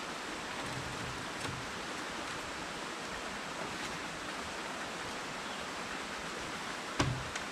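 Steady rushing outdoor noise like running water, with two sharp knocks near the end.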